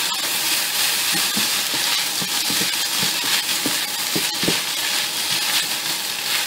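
Fried rice sizzling in a nonstick pan while a spatula stirs and tosses it: a steady frying hiss with irregular scraping strokes of the spatula.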